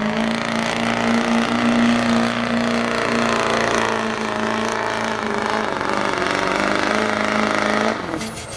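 Diesel pickup truck engine held at high, steady revs under heavy load as it pulls the weight sled, then dropping off sharply near the end as the pull finishes.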